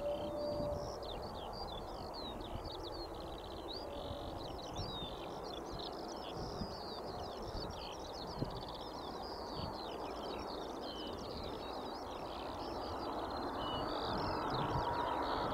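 Many small birds chirping continuously over a steady low outdoor rumble. Toward the end a jet airliner's engine noise starts to swell, a faint whine growing in under the birdsong as it approaches.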